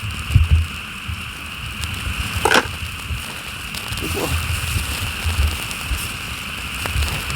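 Pork belly sizzling on a grill grate over a wood campfire, a steady hiss with scattered sharp pops and crackles from the fire. Low rumbling bumps come and go underneath.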